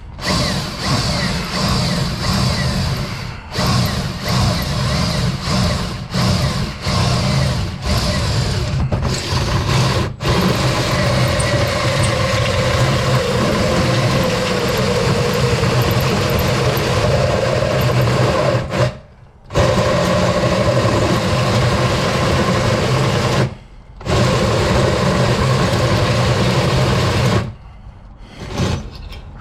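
Power drill boring a hole through steel, running in long spells under load with a few brief stops.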